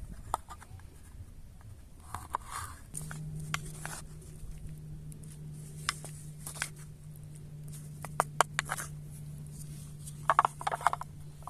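Scattered clicks, scrapes and rustles of things being handled close by, with a quick run of clicks near the end, over a low steady hum that comes in about three seconds in.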